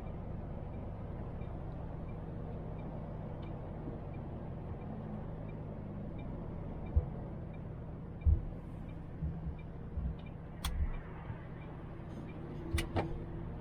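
A MAN TGX truck's diesel engine running steadily at a low, even idle, with faint regular ticking. In the second half there are a few low thumps and sharp clicks.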